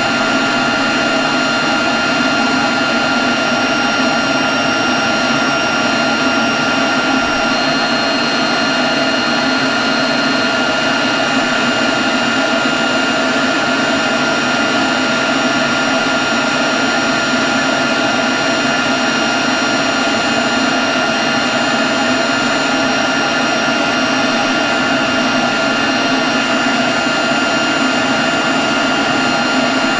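Leaf blower running steadily at constant speed: a continuous rush of air with a steady high whine over it.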